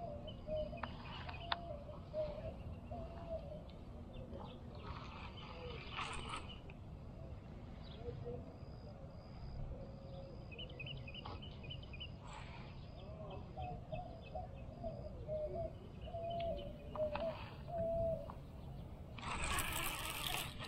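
Birds chirping and singing outdoors over a quiet background, with a few light clicks. A louder rush of noise starts near the end.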